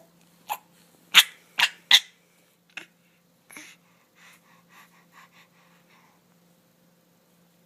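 A baby making short, breathy huffing vocal noises in imitation of a Wookiee: three loud huffs in quick succession about a second in, then softer, smaller ones that die away after about six seconds.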